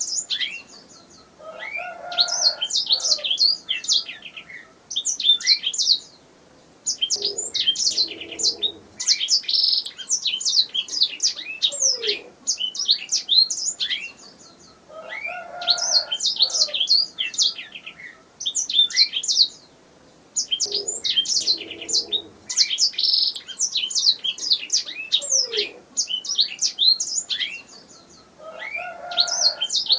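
Canary singing: phrases of a few seconds made of rapid, high trills and chirps, separated by short pauses.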